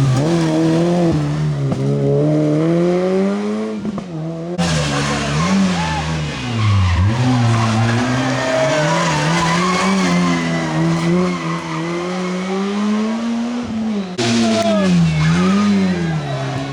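Rally car engines revving hard up and down through the gears, with tyre squeal and skidding. The sound cuts abruptly to another car about four seconds in and again near the end.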